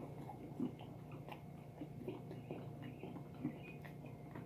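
Faint mouth sounds of someone eating hot sauce: scattered small smacks and clicks of the lips and tongue, a little louder about half a second in and again near the end.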